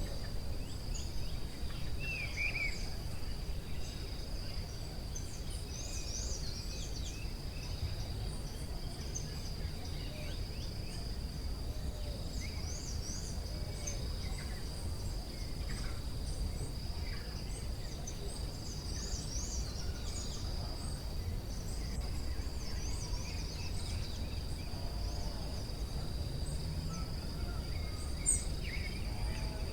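Forest ambience: a steady high-pitched insect drone throughout, with many short bird chirps scattered through it over a low rumble.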